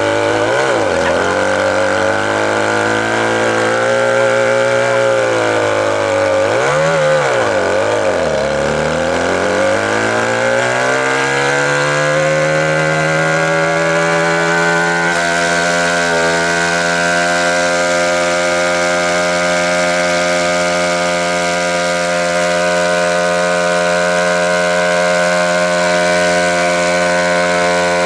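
An engine is revved up and down several times, then its pitch climbs and is held steady at high speed for the second half. This is most likely a motorcycle engine.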